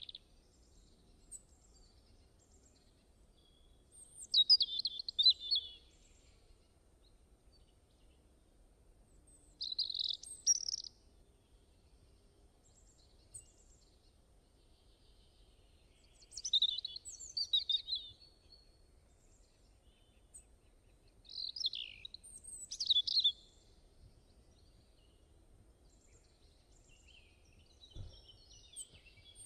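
A songbird singing short, quick twittering phrases about every five or six seconds, with quiet pauses between them.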